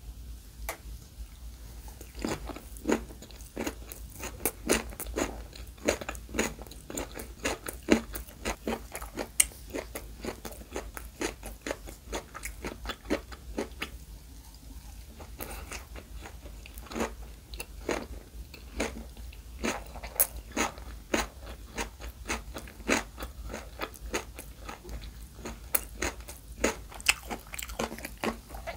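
Close-miked crunchy chewing of rice-less gimbap: raw carrot, cucumber and pickled radish strips in seaweed crackling in quick, sharp crunches, with a short lull about halfway through.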